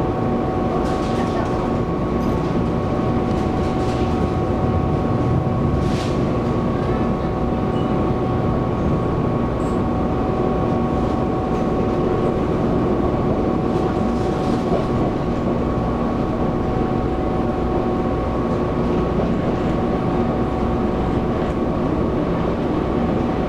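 Taiwan Railways EMU700 electric multiple unit running at a steady speed, heard from inside the car: a continuous rumble of wheels on track with a steady multi-tone hum from the traction drive, and a few faint ticks in the first few seconds.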